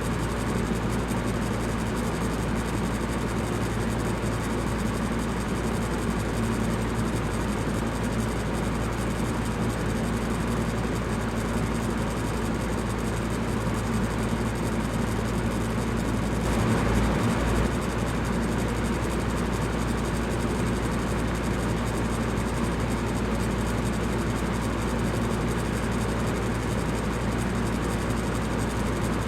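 Electric fan running steadily: an even rushing of air over a low motor hum, with a brief slight swell a little past the middle.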